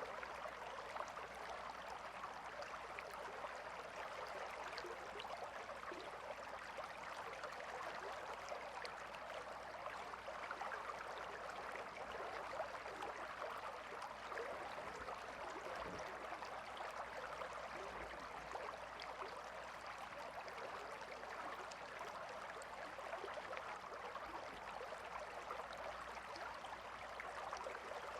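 Calm river flowing: a steady, even rush of water with small flecks of splashing.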